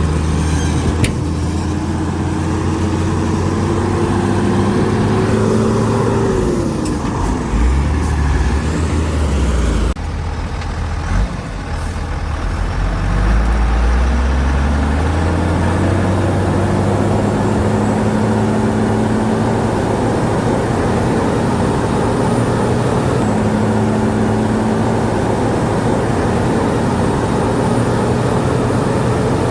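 Shantui DH17C2 bulldozer's diesel engine working under load. Its pitch rises over the first six seconds and falls around seven. It dips and goes quieter about ten seconds in, then rises again and holds steady.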